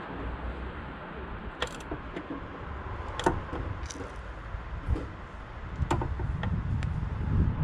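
Scattered sharp metallic clicks and knocks of tools and car parts being handled, over a steady low wind rumble on the microphone.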